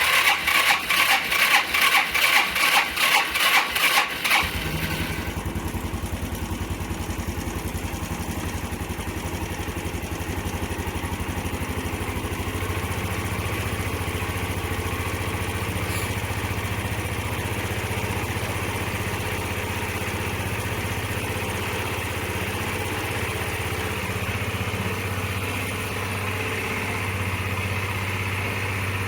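1993 Yamaha Riva 125 scooter engine cold-started on the electric starter: about four seconds of rhythmic cranking, then the engine catches and settles into a steady idle.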